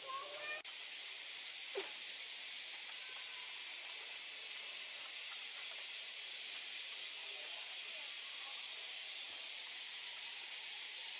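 Steady high-pitched hiss of outdoor background sound, with one short click about two seconds in.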